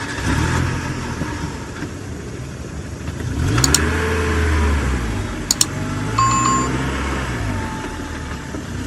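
Mitsubishi Montero's common-rail diesel engine running, revved up and let fall back twice, with a couple of sharp clicks and a short beep. The engine has a misfire that sets no fault code.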